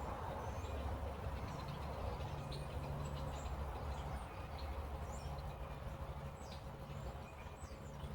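Birds chirping here and there, short high calls, over a steady low background rumble.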